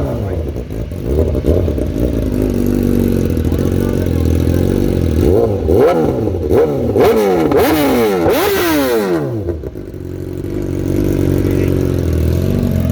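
Superbike engine idling, then blipped through a run of quick revs, each rising and falling in pitch, the last and highest with a brief rushing noise, before it settles back to a steady idle.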